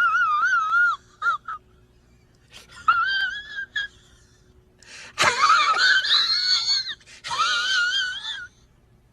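A high-pitched, wavering wailing cry, a comedic crying sound effect, coming in about five phrases: a long one, a short blip, then three more separated by brief pauses.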